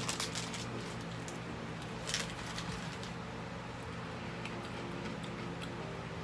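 A few faint crunches of a crab cracker snack being bitten and chewed, with one sharper crunch about two seconds in, over a steady low hum.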